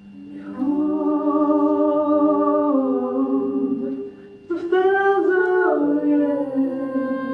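Song with a singing voice holding long notes over a sustained keyboard accompaniment. One long phrase steps down in pitch over about three seconds, then after a short break a second phrase begins.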